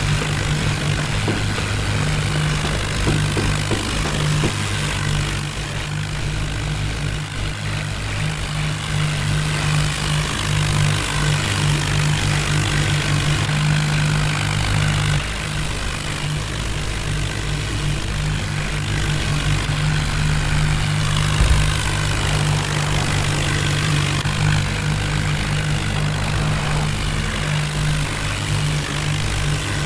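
Diesel engine of a tractor or loader running steadily at a constant speed, a low, even hum.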